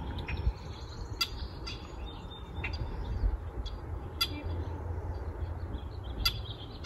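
Birds giving short, sharp chip calls, about five scattered through, over a steady low rumble.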